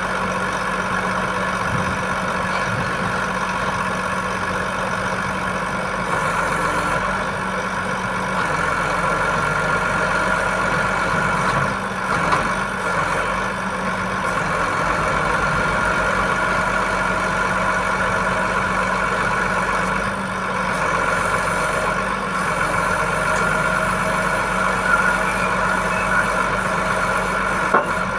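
Heavy diesel engine idling steadily, with a few faint clicks in the second half.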